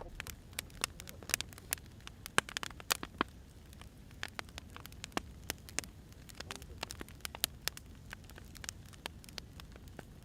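Wood fire crackling: irregular sharp pops and snaps from burning firewood, some loud and some faint, over a steady low rumble.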